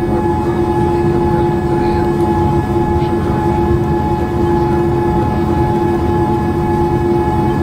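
Cabin noise inside a Boeing 787-8 Dreamliner on the ground just after landing: a steady low rumble with several steady whining tones over it.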